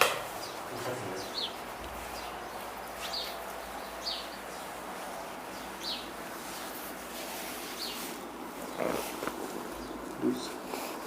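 A small bird chirping repeatedly in the background, short falling chirps every second or two, over a steady hiss. A sharp click right at the start is the loudest sound, with a weaker one near the end.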